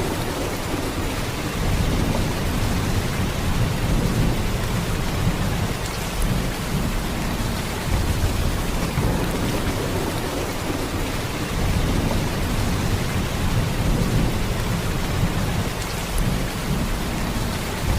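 Heavy, steady downpour of rain: a dense hiss of drops with a deep low rumble underneath that swells and eases every few seconds.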